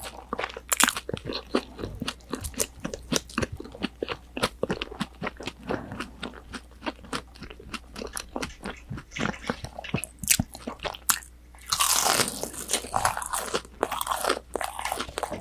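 Close-up crunching and chewing of crispy breaded tonkatsu (fried pork cutlet), a quick run of sharp crackles, with a denser burst of crunching about twelve seconds in. Recorded on a binaural microphone.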